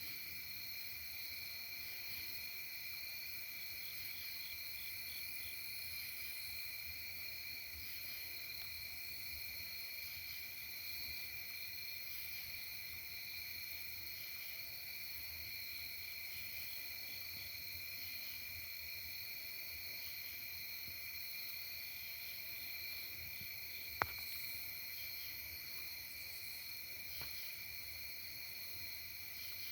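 Steady chorus of insects trilling at a high pitch, with a single sharp click late on.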